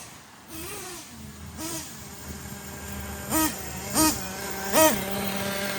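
Ofna Titan's .25 nitro engine idling steadily, blipped three times in quick succession near the end, its pitch rising and falling with each blip. The owner says the engine is still running rich.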